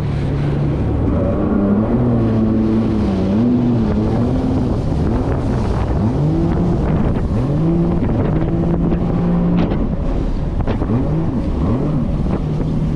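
1800cc jet ski engine running hard, its pitch swinging up and down over and over as the throttle is worked, with a series of quick rising sweeps in the second half. Wind buffets the microphone.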